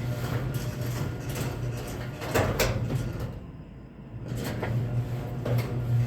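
Chamberlain garage door opener running, a steady low motor hum with rattling and clicks from the door's travel. The hum fades away briefly about three and a half seconds in, then resumes.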